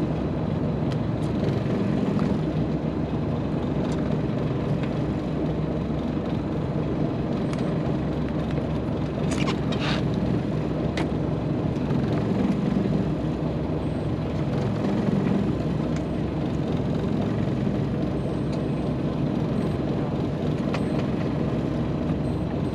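A boat's engine or generator runs steadily, a low even rumble, with a few faint clicks and a short rustle about ten seconds in.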